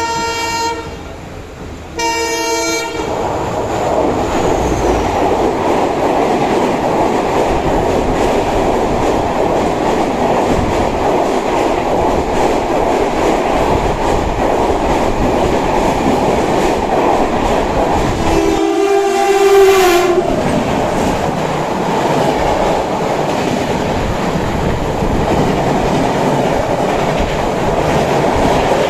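Indian Railways locomotive horn sounding two short blasts, followed by a passing train's steady rumble and wheel clatter. Another horn blast about two-thirds of the way through drops in pitch as the train goes by.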